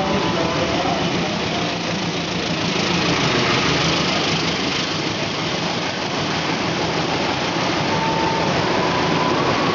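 Diesel locomotive passing close at speed, its engine running, followed by its coaches rushing by with a steady loud rumble of wheels on rails. The tail of its horn fades out in the first second.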